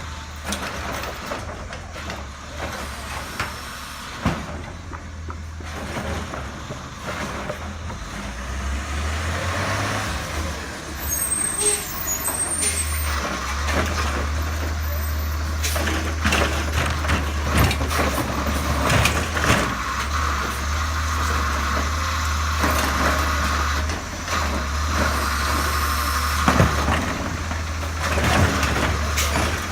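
Garbage truck engine running steadily, with knocks and clanks and air-brake hisses as it works. A brief high squeal comes about twelve seconds in.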